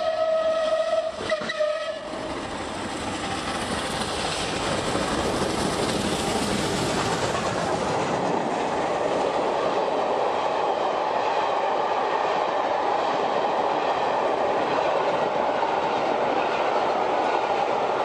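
A passenger train running through a station at speed. It sounds one long single-note whistle that cuts off about two seconds in, followed by the steady rush and rattle of the coaches passing close by.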